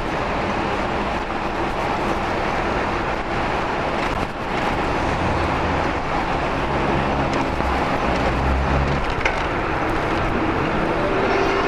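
Steady rush of wind and tyre noise from an e-bike ridden over rough pavement. A low hum joins between about five and nine seconds in.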